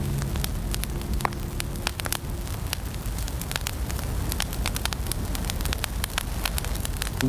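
Wood fire crackling in a fireplace: many small, irregular pops and snaps over a low rumble.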